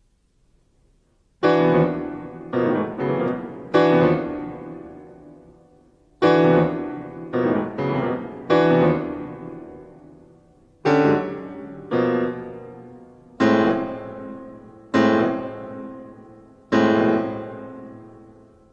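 Solo piano playing loud struck chords that ring out and fade: a four-chord figure played twice, then five single chords about a second and a half apart.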